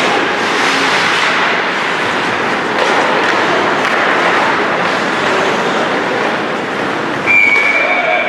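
Ice hockey in play: a steady scraping hiss of skates on the ice. About seven seconds in, a referee's whistle blows one long, high note that stops play.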